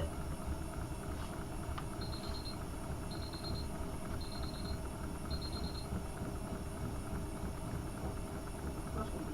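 AEG Öko-Lavamat 72520 washing machine running mid-cycle on a hot wash, a steady low motor and drum rumble. About two seconds in, four short groups of rapid high beeps sound about a second apart.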